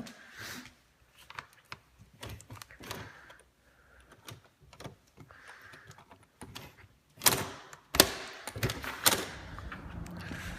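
A door being unlocked and opened: scattered clicks and knocks, then a loud rushing scrape and a sharp knock about seven to eight seconds in, after which a steady low background noise sets in.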